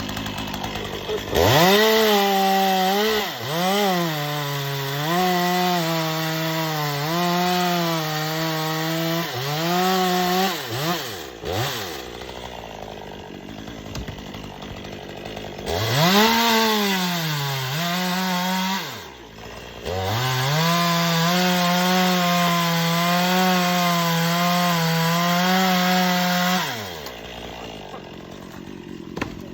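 Chainsaw revving up and cutting through wood twice, each cut about ten seconds long, its pitch wavering under load before it drops back to idle.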